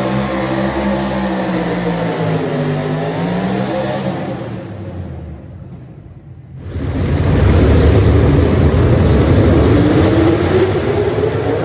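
Small-block V8 pulling truck running hard under load, its engine note sagging and climbing in pitch. Around the middle the sound drops away for about two seconds, then comes back loud with the engine climbing again.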